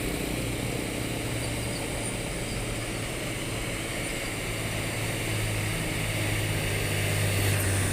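Truck engine running steadily, growing somewhat louder toward the end as it comes closer.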